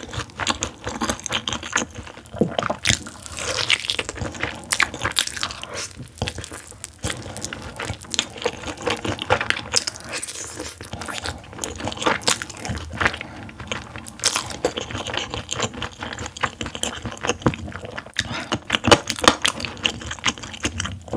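Close-miked crunching and chewing of crispy soy-honey glazed fried chicken, the crisp sauce coating crackling with each bite.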